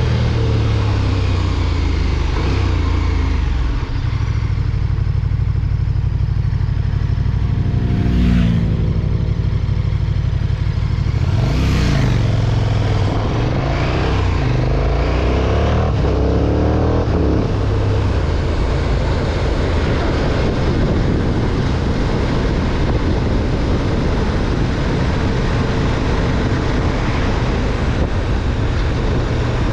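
2020 KTM 1290 Super Duke R's V-twin engine under way. Its revs dip and pick up again twice about a third of the way in, climb under acceleration, then settle to a steady cruise for the second half.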